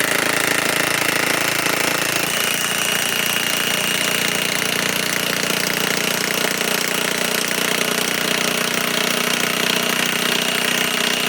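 DeWalt DCF961 high-torque cordless impact wrench hammering steadily without a break as it drives a large lag bolt into wood.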